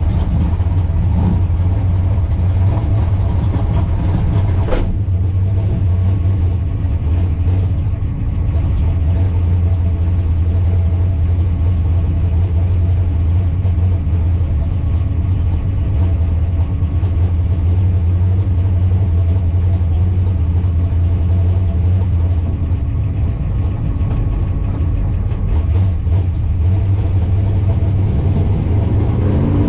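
Naturally aspirated drag-race car engine idling steadily with a deep, even rumble. There is one sharp click about five seconds in.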